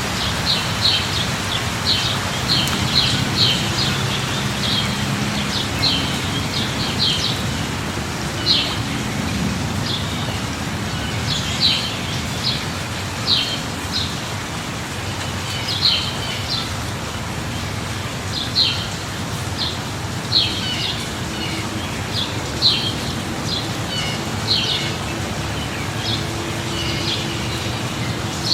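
Steady rain with a songbird chirping over it: short high chirps, bunched quickly at first, then coming about every second or two.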